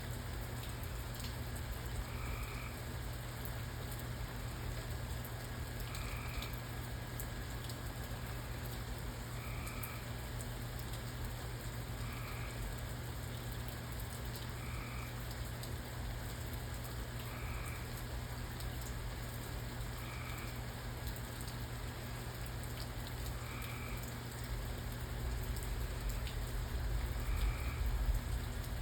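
Steady rain hiss with a frog calling over it, one short croak about every two and a half seconds. A low rumble swells near the end.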